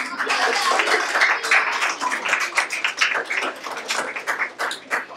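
Group of people clapping and cheering, the claps thinning out toward the end.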